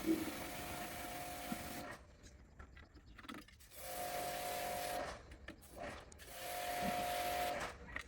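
A small motor-driven tool runs steadily for about two seconds, stops, then runs twice more in short bursts of about a second each, with a steady tone.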